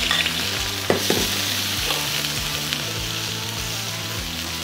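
Shell-on prawns sizzling and frying in hot oil in a wok over a high gas flame, seared to dry them out and brown the shells. A steady hiss, with a light knock about a second in.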